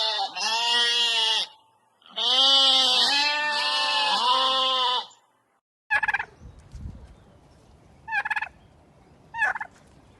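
Goats bleating in long wavering calls. After a short pause a turkey gobbles three times in short rattling bursts.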